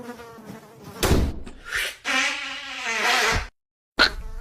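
Cartoon insect buzzing, a steady droning buzz like a fly or mosquito. About a second in it gives way to loud sudden noisy sound effects, the longest lasting over a second. Two short sharp hits come near the end.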